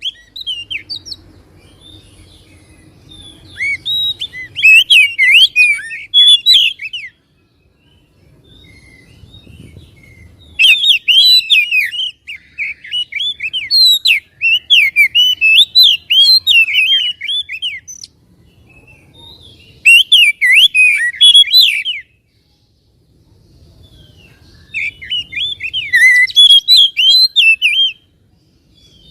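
Oriental magpie-robin (kacer) singing in four loud bouts of rapid, varied whistles and chirps, with short pauses between the bouts.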